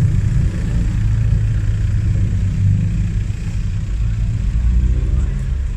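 Car engine running at idle close by: a steady low rumble.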